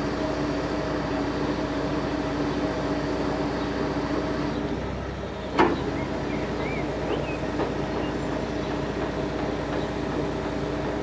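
Heavy diesel engine running steadily, with the hum of a recovery crane's hydraulics, as a chain to a truck stuck in soft ground is drawn tight. One sharp clank about halfway through, followed by a few faint bird chirps.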